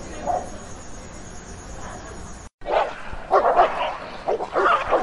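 Dog barking: one short bark soon after the start, then, after a brief break, a fast run of repeated barks and yaps that grows louder.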